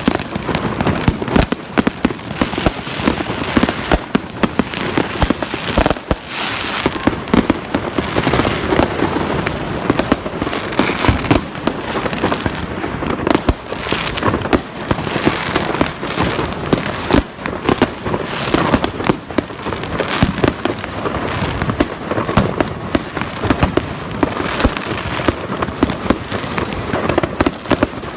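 Fireworks going off without a break: a dense, rapid run of bangs and crackling.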